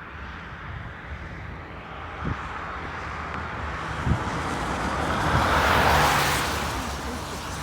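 A vehicle passing by: a rushing noise that swells to a peak about six seconds in, then fades away.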